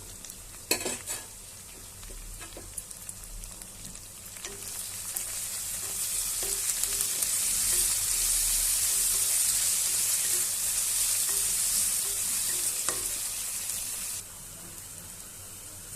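Onions, green chillies, coriander and mint frying in hot oil in a pan, sizzling while a spoon stirs them, with a few knocks about a second in. The sizzle swells from about four seconds in, stays loud, and drops away suddenly near the end.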